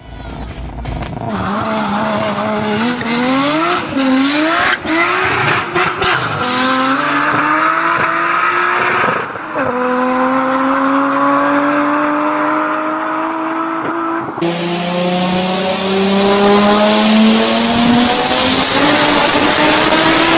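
A performance car engine accelerating hard through the gears, its pitch climbing and dropping at each shift. About fourteen seconds in, a cut leads to another engine pulling steadily upward under load, with a high whine rising alongside it.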